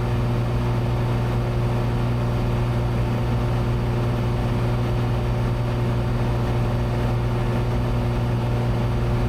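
Cessna 182's six-cylinder piston engine and propeller droning steadily in cruise, heard from inside the cabin.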